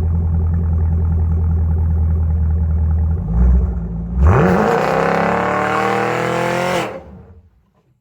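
Camaro SS 1LE's V8 through Flowmaster Outlaw mufflers and an X-pipe, running at a steady low rumble, then about four seconds in revving hard and climbing in pitch under a loud hiss of spinning rear tyres in a burnout. The sound cuts off abruptly near the end.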